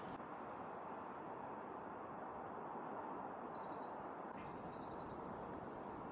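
Small birds chirping in short, high, slightly falling notes, a few at a time, over a steady outdoor hiss.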